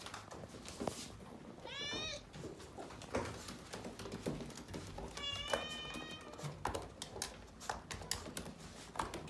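Domestic cat meowing twice: a short rising meow, then a longer, drawn-out one, with scattered light clicks and knocks around it.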